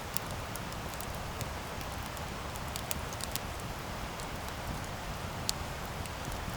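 Wood campfire burning: a steady low rush of flame with scattered sharp crackles and pops from the burning wood.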